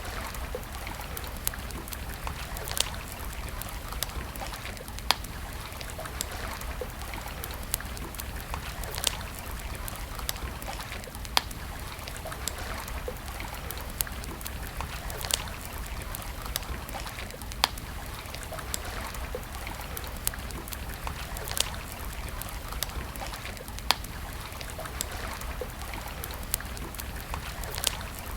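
Campfire burning with a steady crackle and hiss, broken by sharp, irregular pops every second or two.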